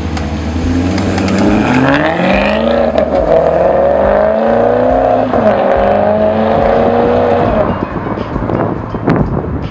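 Maserati GranTurismo MC Stradale's 4.7-litre V8 accelerating, its pitch climbing over the first few seconds. About five seconds in the pitch drops sharply, as at an upshift, then holds before the engine fades. A few sharp knocks follow near the end.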